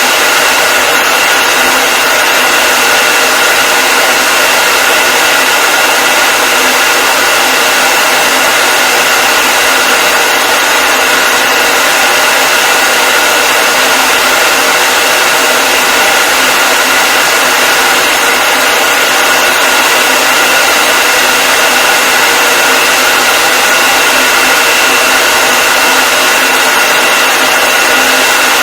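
Hair dryer running continuously at a steady speed: a loud, even rush of air with a steady motor whine.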